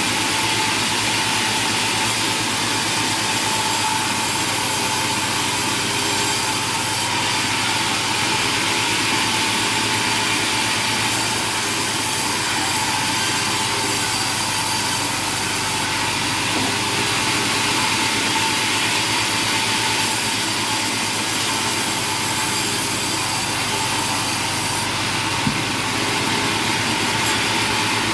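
Sawmill machinery running steadily: an even motor hum carrying a constant whine, with one light knock near the end.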